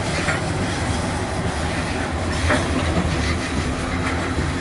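Loaded coal cars of a freight train rolling past: a steady, loud rumble of steel wheels on rail, with a couple of brief high squeaks.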